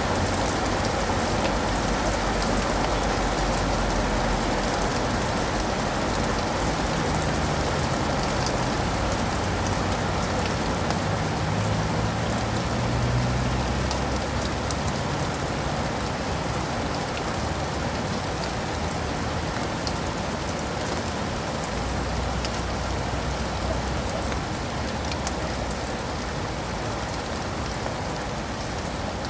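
Steady rain falling, with many small sharp drop hits, and a faint low rumble that swells and fades about a quarter to halfway through.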